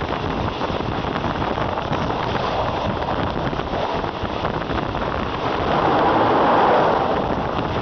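Passenger train running at speed, heard from an open carriage window: steady wind rush on the microphone over the noise of wheels on the rails. The noise swells louder for about two seconds near the end as the train crosses a short bridge.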